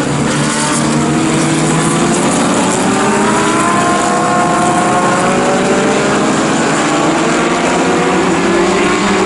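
Historic sports racing cars' engines running hard on a circuit, a steady loud roar with several engine notes slowly rising in pitch as the cars accelerate.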